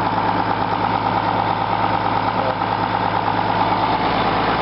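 Case 2290 tractor's six-cylinder Case 504 diesel engine running steadily at a constant speed, still cold and warming up after a cold start.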